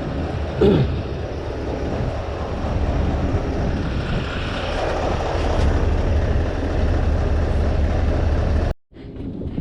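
Scania V8 diesel truck engine running loud and steady, with a deep low rumble; the sound cuts off abruptly near the end.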